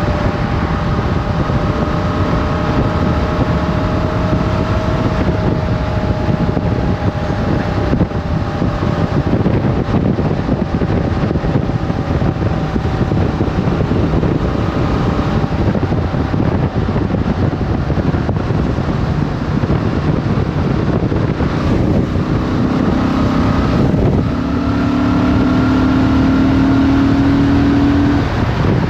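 Motorcycle engine running under way with wind rushing over the microphone. About three-quarters of the way through, the engine note rises slightly and gets louder as it pulls harder, then drops away near the end.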